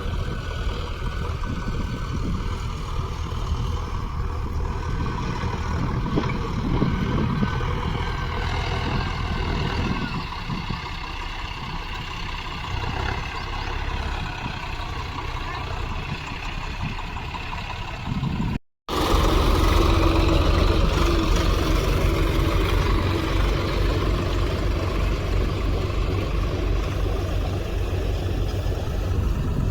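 Tractor diesel engine running steadily. About two-thirds of the way through it cuts out for a split second, and then comes back louder with a steady low hum.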